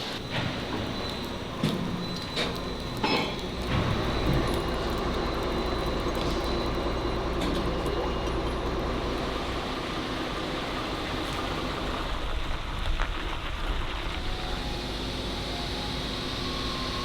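Precast-concrete factory machinery running steadily, with a low hum and a faint high whine, and several sharp metallic clanks and knocks in the first few seconds.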